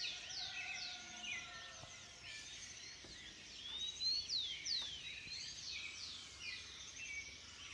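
Dawn chorus: many birds singing and calling at once, a dense overlap of quick high whistles, sweeps and chirps.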